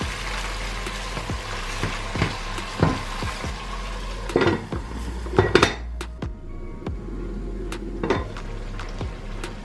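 Dishes and cutlery clinking and knocking against each other, a string of sharp clinks with the loudest about four and a half and five and a half seconds in.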